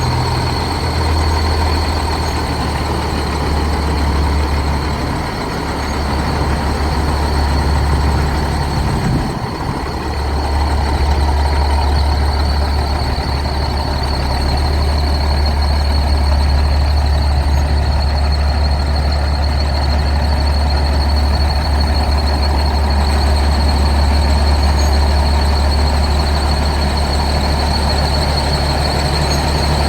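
Peterbilt semi truck's diesel engine running steadily with a constant high-pitched squeal over it, a squeal the owners have not yet figured out. The engine note dips briefly about nine seconds in.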